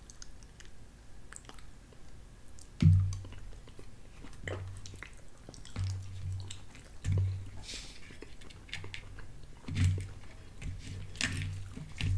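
Close-up eating sounds: chewing a mouthful of chicken pot pie with small wet mouth clicks, while a fork taps and scrapes in the aluminium foil pie tin. A low thump about three seconds in is the loudest sound, and softer low pulses recur through the rest.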